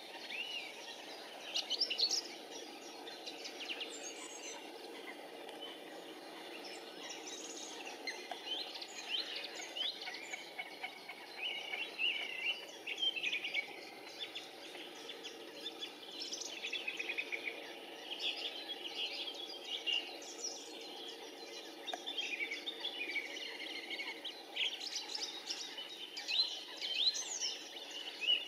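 Birds chirping and calling: many short, high calls, some in quick rattling series, coming irregularly over a steady low hum.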